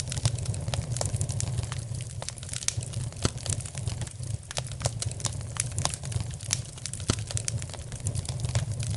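Wood fire crackling in a fireplace: irregular pops and snaps over a steady low rumble of the burning fire.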